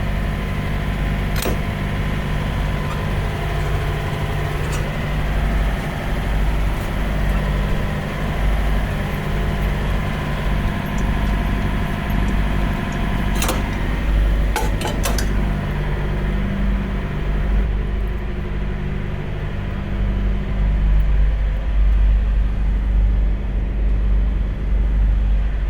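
Peterbilt semi truck's diesel engine idling steadily with a low hum, with a few sharp clicks about halfway through.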